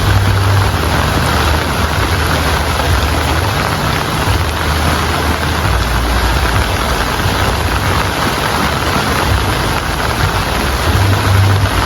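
Steady heavy rain falling, with a low rumble underneath that swells and fades.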